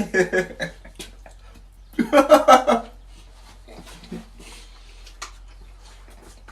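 A man's voice laughing in two short bursts, the louder one about two seconds in, followed by quiet eating with a few small clicks.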